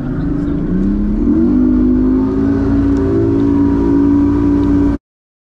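Boat's outboard motor running and throttling up about a second in, its pitch rising then holding steady over a low rumble. The sound cuts off abruptly near the end.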